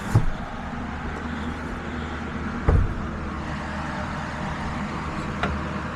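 Yamaha PW80 dirt bike's small two-stroke engine running steadily, with two dull thumps, one just after the start and one a little under three seconds in.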